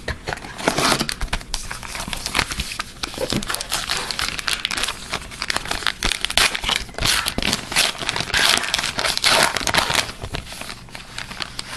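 A trading-card pack wrapper being crinkled and torn open by hand, with irregular crackling throughout.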